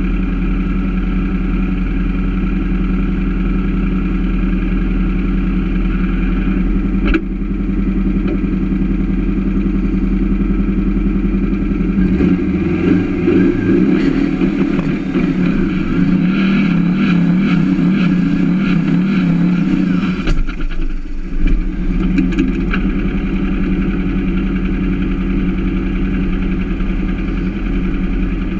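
Turbocharged 2332cc air-cooled VW flat-four running at a loud, steady idle. For several seconds in the middle its note gets louder and rougher, rising and falling as the engine is revved. There is a single sharp click about seven seconds in.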